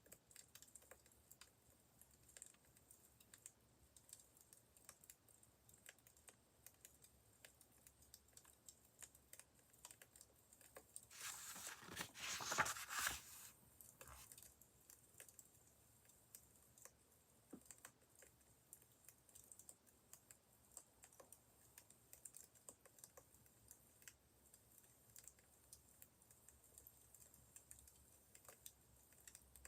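Faint crackling of a wood fire: scattered small pops and ticks throughout. About eleven seconds in there is a louder noisy stretch lasting about three seconds.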